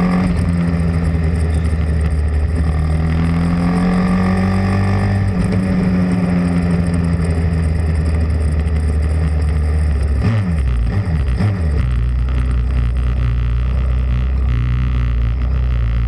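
Pit bike engine running at steady revs, its pitch gliding slowly up and down. About ten seconds in it revs up and drops several times in quick succession, then settles at a lower, steady note.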